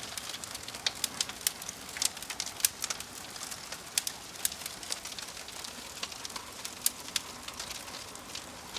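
Wood logs burning in a fireplace, crackling: irregular sharp pops and snaps, several a second, over a steady soft hiss.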